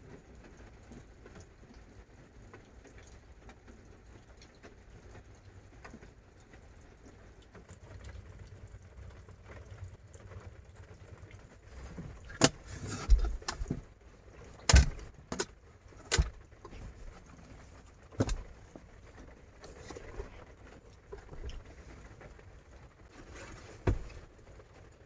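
A faint steady background noise, then a run of sharp knocks and clatters about halfway through, with one more near the end.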